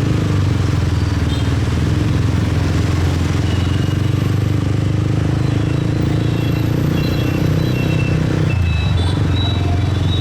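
Motorcycle engine running steadily while riding in city traffic, its note changing briefly about eight and a half seconds in.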